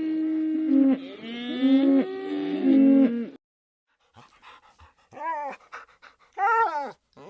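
Cattle mooing in long, low, overlapping calls that stop abruptly about three seconds in. After a short silence, a dog whimpers in short, high, wavering whines, two of them loudest.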